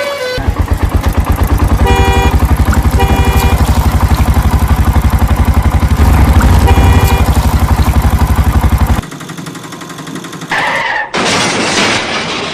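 Cartoon sound effect of a vehicle engine running with a fast, even chug, with three short horn honks over it. The engine cuts off suddenly about nine seconds in, and a loud rushing burst with a high screech follows near the end.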